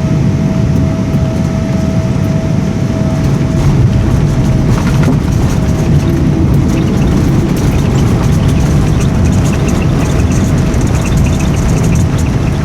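Cabin noise inside a Boeing 777-200ER on its descent to landing: a loud, steady rumble of engines and airflow with a thin steady whine, and light rattling that becomes more frequent in the second half.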